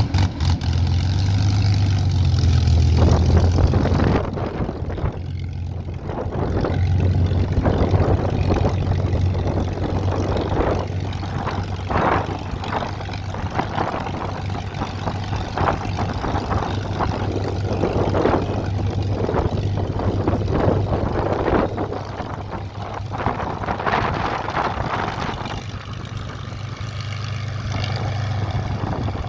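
Supermarine Spitfire's V12 piston engine running on the ground with its propeller turning, a deep steady drone. The sound is loudest for the first four seconds, then drops and varies in level as the aircraft taxies.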